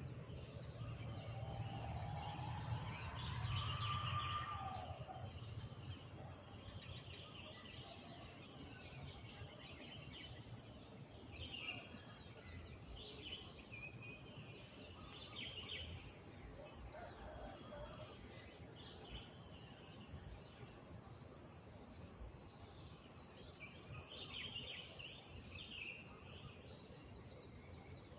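Rural morning ambience: small birds chirping on and off over a steady high drone of insects. A louder low rumble with a rising tone fills the first few seconds, then fades.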